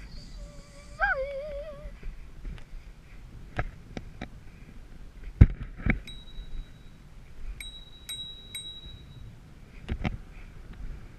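Low rumble and scattered knocks and rattles of a bicycle being ridden, the loudest knock about halfway through. Near the start there is a short wavering pitched call, and through the middle a thin steady high tone with a few ticks.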